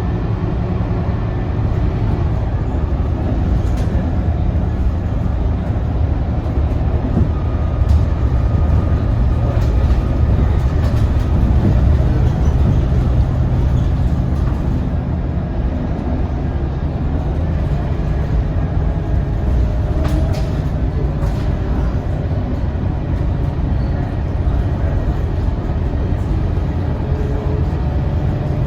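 Scania K230UB single-deck bus under way, heard from inside: its five-cylinder diesel engine runs steadily with road rumble, swelling a little several seconds in, with a faint whine and a few light rattles.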